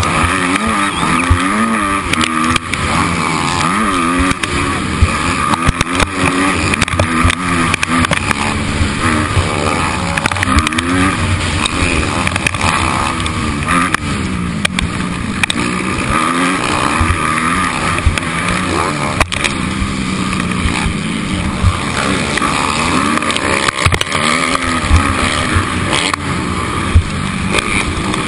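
Motocross bike engine revving up and falling back again and again as it is ridden hard around the track, with a steady rush of wind and noise under it and scattered knocks.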